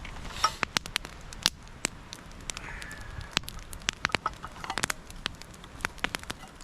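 Wood campfire crackling, with irregular sharp snaps, several close together now and then.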